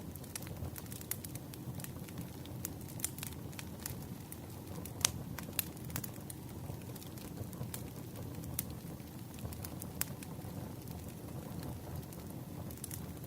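Wood campfire burning: a steady low rumble of flames with irregular sharp crackles and pops from the logs, the loudest pop about five seconds in.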